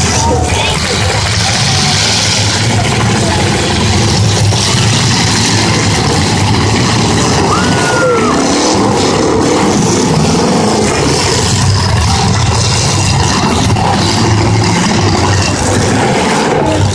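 Demolition derby cars' engines running and revving together, loud and steady.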